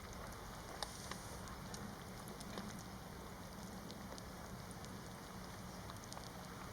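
Faint crackling of a wood campfire: a soft hiss with scattered sharp pops and ticks.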